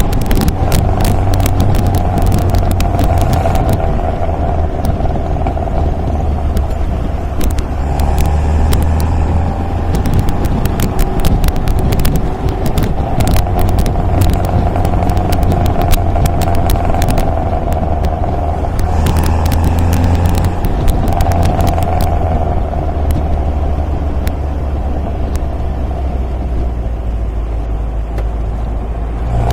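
MG MGA roadster's four-cylinder engine running steadily on the road, its pitch shifting slightly now and then, with many short crackles over it.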